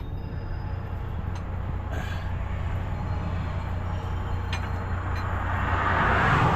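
Truck engine idling steadily with a low hum, while a passing vehicle's noise swells up over the last second or two.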